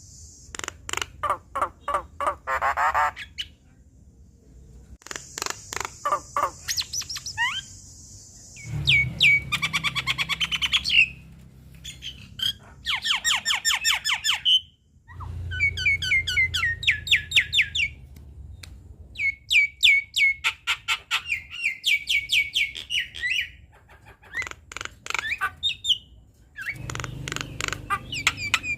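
Javan myna singing a varied, busy song: fast rattling chatter and harsh squawks mixed with short whistled notes, in bursts broken by brief pauses.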